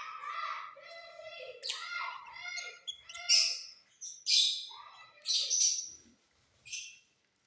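Mutation lovebirds chattering, with several loud, harsh screeches among the twittering.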